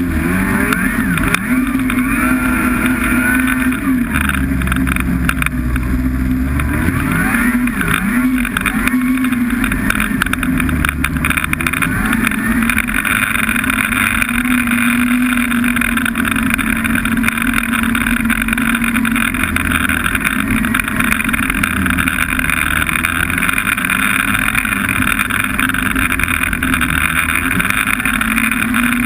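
Snowmobile engine running while riding. Its pitch rises and falls over roughly the first twelve seconds, then holds steady at cruising speed.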